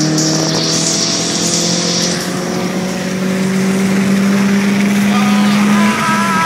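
A 2005 Toyota Corolla S's four-cylinder engine, breathing through an Injen short ram intake and a Magnaflow exhaust, pulling under acceleration. Its note rises steadily in pitch for about six seconds, then drops near the end.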